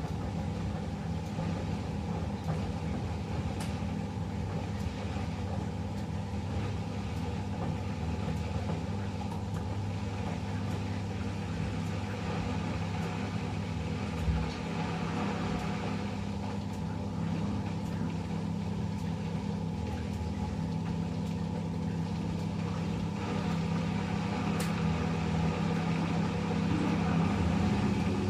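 Eudora 38 Super washing machine running with a steady mechanical hum, with one brief knock about halfway through; it grows slightly louder near the end.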